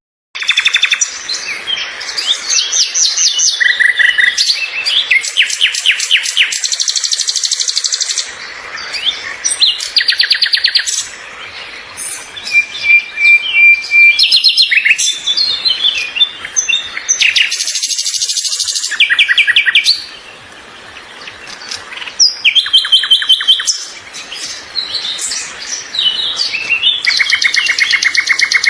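Songbirds singing in fast, high trills and rapid runs of repeated chirps, almost without a break, with brief lulls now and then.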